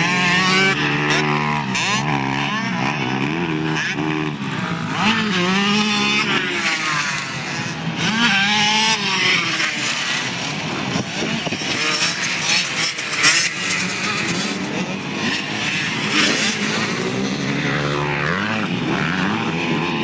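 Several pit bike engines racing, revving up and dropping again and again as the riders shift and back off, their rising and falling pitches overlapping.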